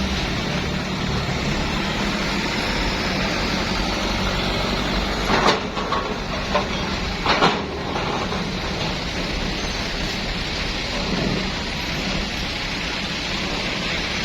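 Steady rumble of a bus on the move, with a few sharp knocks or rattles about five and a half and seven and a half seconds in.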